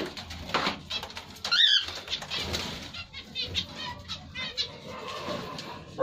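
Caged pet birds, cockatiels among them, chirping and fluttering: one loud warbling call about a second and a half in, then a run of quick chirps in the middle, with brief wing flaps.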